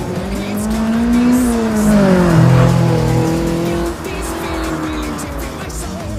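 Exhaust note of a 1990 Toyota MR2 SW20's naturally aspirated four-cylinder engine through a stainless Mongoose exhaust with a decat. The note climbs in pitch, drops about two seconds in, then runs lower and steadier, with music playing underneath.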